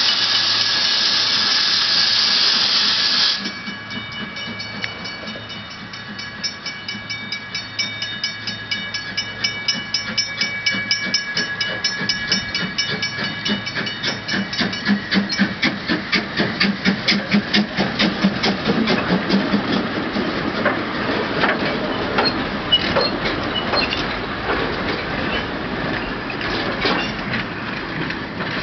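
A 2-foot gauge steam locomotive gives a loud hiss of steam that cuts off suddenly about three seconds in. It then chuffs, the exhaust beats coming quicker as the train gets under way, with a steady high tone above them for a while. The chuffing fades later, leaving scattered clicks and clanks.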